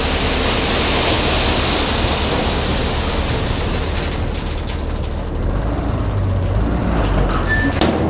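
Ford Cargo 2628 tipper truck heard from its cab, running at road speed with a steady rush of engine and road noise. About halfway through, the higher noise drops away and the engine's low note comes forward as the truck slows.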